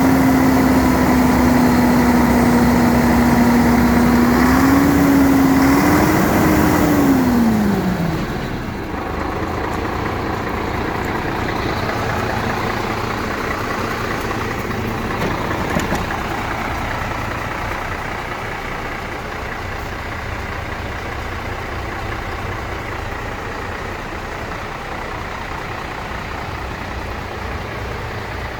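A vehicle engine running, with a steady whine that lifts slightly twice and then falls away and stops about eight seconds in, leaving a steady low rumble.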